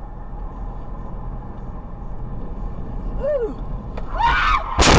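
Steady road and engine noise heard inside a moving car. Near the end come rising, high-pitched shrieks and then a sudden loud crash-like bang.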